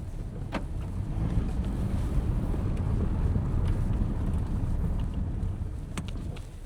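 Car being driven on the road: a steady low rumble of road and tyre noise with some wind, swelling in the middle and easing near the end, with a couple of short sharp clicks.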